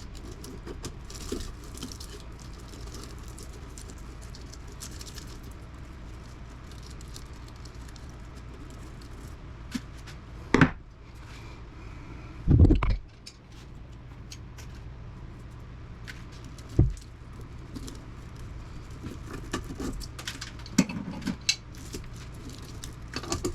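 Scattered metal knocks and light clinks from hand tools working copper windings out of a motor's steel stator, over a steady low hum. The loudest sound is a heavy thud about twelve and a half seconds in, and there are several quick clinks near the end.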